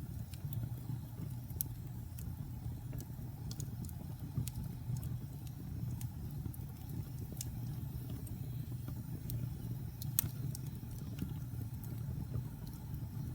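Wood fire burning in a fireplace: a steady low rumble with scattered, irregular crackles, a sharper crackle about ten seconds in.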